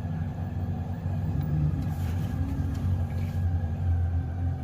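A loud, steady low mechanical drone, growing louder about four seconds in, with a few faint light clicks in the middle.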